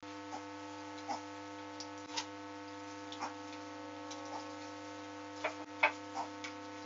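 A steady electrical hum with a dozen or so light, irregular ticks and taps on top of it.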